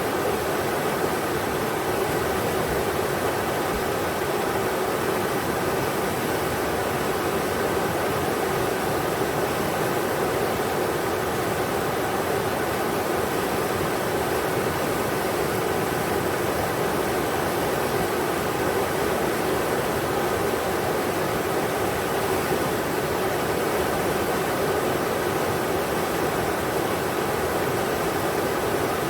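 Englishman River flowing over rocks: a steady, even rush of water with no single splash standing out.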